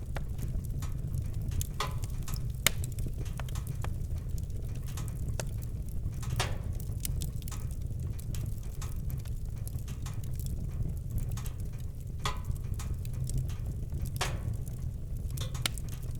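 Campfire crackling, with sharp pops and snaps at irregular intervals over a steady low rumble.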